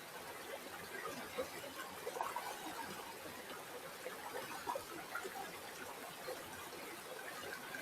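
River water flowing and trickling, a steady babble of many small irregular splashes.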